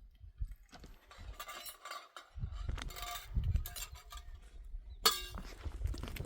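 Light clinks and knocks of hard objects, with one sharp ringing clink about five seconds in, over a low rumble.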